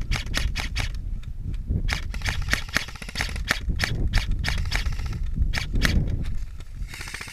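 Airsoft guns firing: a run of sharp shot cracks, several a second. About seven seconds in comes a rapid full-auto burst.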